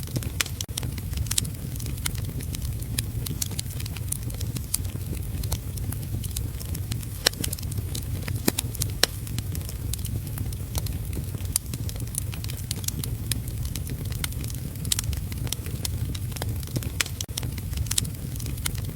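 Wood fire crackling in a fireplace, with frequent sharp pops and snaps over a steady low rush, mixed with steady heavy rain.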